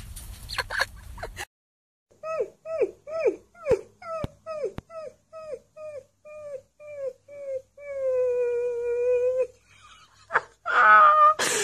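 A husky-type puppy howling: a string of short yelps, each dropping in pitch, about two a second, then one longer held howl. Near the end comes a louder, harsher sound.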